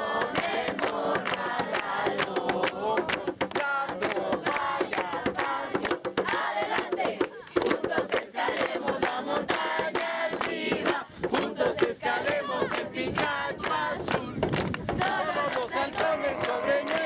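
A group of young people shouting and chanting together in a campfire yell, many voices at once, with frequent sharp hits running through it.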